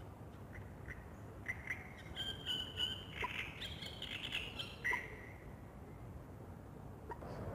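Songbirds singing at dawn: a burst of overlapping chirps and short warbled phrases starting about a second and a half in and dying away after about five seconds, over a low steady background rumble.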